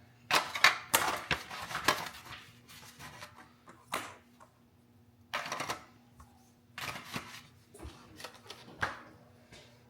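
Tea light candles clicking and clattering as they are set into a muffin tin, an irregular run of sharp knocks in several short clusters.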